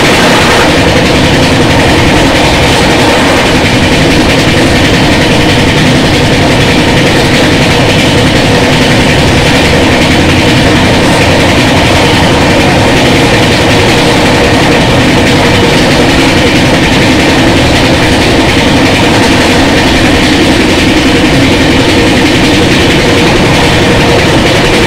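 Passenger train running at speed, heard from an open coach window: a loud, steady rush of wheel and track noise with a steady tone running through it. In the first second it is briefly hissier as another train passes close alongside.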